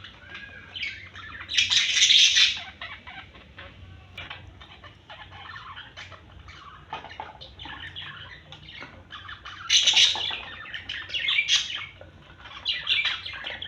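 Small pet parrots chattering and squawking, with rapid clicky calls throughout and loud bursts about two seconds in and again around ten seconds.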